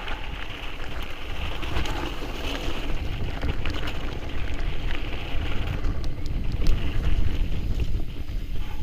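Mountain bike riding over a rocky trail: wind buffeting the microphone as a heavy, uneven rumble, with tyre crunch and scattered clicks and rattles from stones and the bike.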